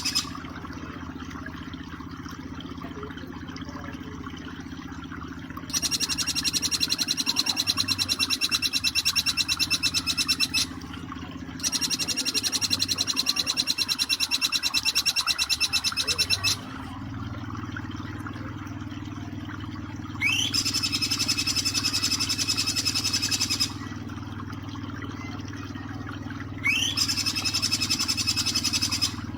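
Jingjing petulak (bar-winged flycatcher-shrike) song: repeated bursts of a fast, evenly spaced high trill, each lasting a few seconds with pauses between, the last two opening with a quick rising whistle. A steady low hum runs underneath.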